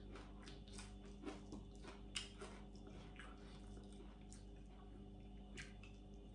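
Faint eating sounds: chewing and small mouth and finger clicks over a mouthful of sticky rice and deep-fried sun-dried fish, with a low steady hum underneath.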